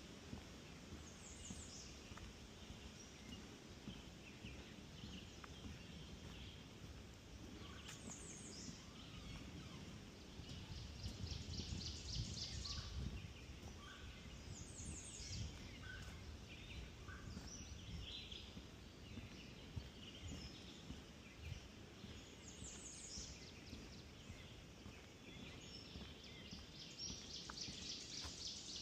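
Songbirds singing: short high songs that fall in pitch, coming every several seconds, and longer fast trills, over a faint low rumble.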